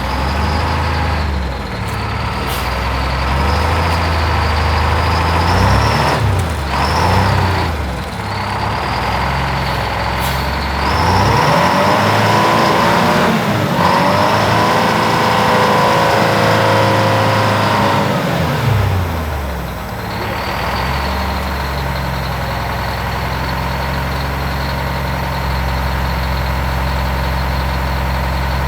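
Heavy diesel truck engine running steadily, revving up about eleven seconds in and easing back down to a steady idle by about nineteen seconds.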